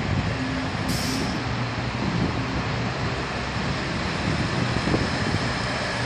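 A DB maintenance train running slowly through the station, with a steady rumble of wheels and machinery. A short hiss comes about a second in, and a faint high tone near the end.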